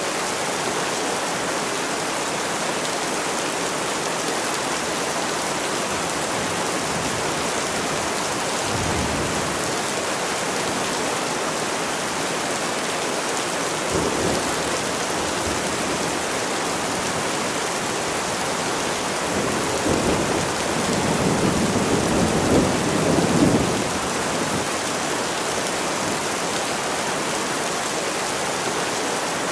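Steady heavy rain, with low rumbles of thunder: brief ones about nine and fourteen seconds in, and a longer, louder roll about two-thirds of the way through.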